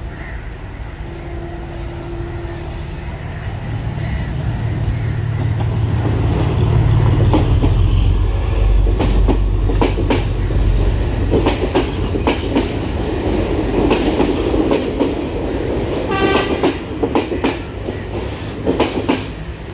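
Diesel passenger train approaching and passing close beneath, its engine rumble building to a peak about seven to nine seconds in. Then the coaches' wheels keep up a rapid clatter of clicks over the rail joints as the train goes by. A short steady horn note sounds about a second in.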